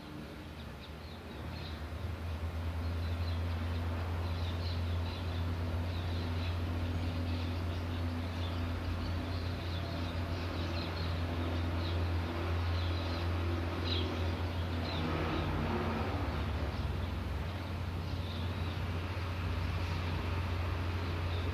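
A steady low motor hum that swells about two seconds in and stays the loudest sound, with birds chirping in short, high calls throughout.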